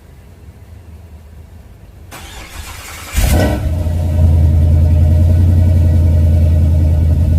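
Cammed 426 V8 cold start: the starter cranks for about a second, the engine catches about three seconds in with a sharp burst of revs, then settles into a loud, steady idle.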